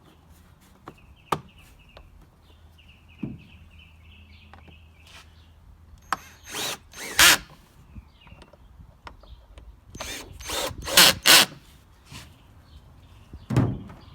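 A cordless drill or power screwdriver running in two short stretches, driving the screws of the generator's cover back in. It is followed by loud clattering knocks, twice, as parts are handled.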